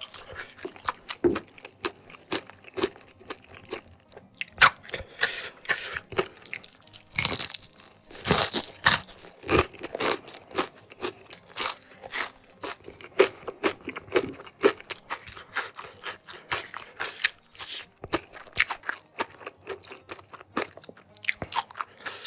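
Close-up chewing of crispy flour-battered fried chicken: an irregular run of crisp crunches, heaviest from about four to ten seconds in.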